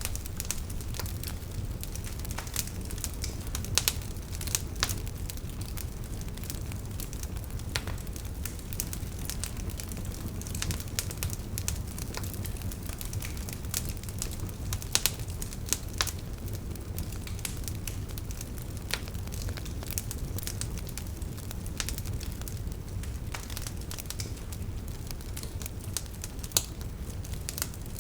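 Wood campfire burning: a steady low rumble of flames with irregular sharp crackles and pops, a few of them louder.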